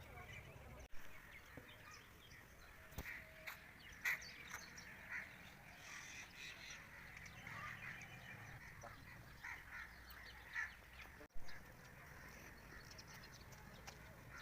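Birds chirping and calling, many short calls scattered throughout over a low steady background rumble, with two sharp clicks, one about a second in and one near the end.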